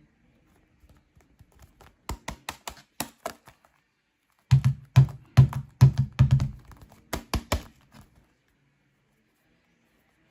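Quick fingertip taps on a football: a run of light taps, then a second, louder run of taps with a hollow thud in them.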